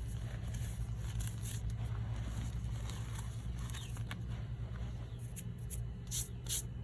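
Reformed blocks of gym chalk and baby powder being crushed and crumbled: scattered faint crunches and crackles, with two sharper crunches about six seconds in, over a steady low hum.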